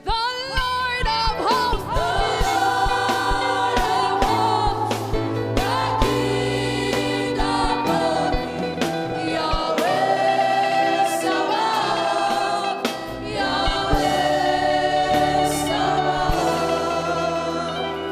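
Gospel worship song sung by a group of voices over a live band, with sustained bass notes and regular drum hits.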